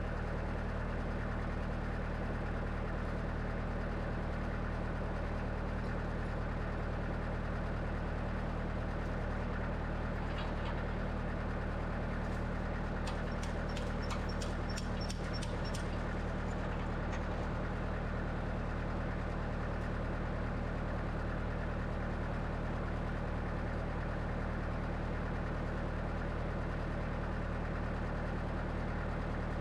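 An engine running steadily at an even speed, with a run of light clicks about halfway through.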